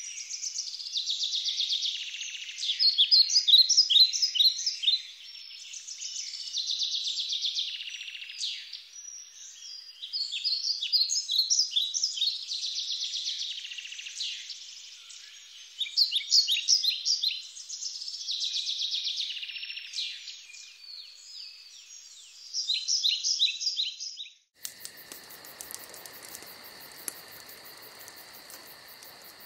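Birds singing, with dense rapid chirps and trills. About 25 seconds in it switches abruptly to a steady, high, fast-pulsing chorus of insects.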